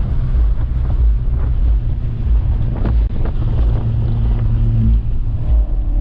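A vehicle engine running steadily with a low drone, its pitch stepping slightly near the end, with wind buffeting the microphone.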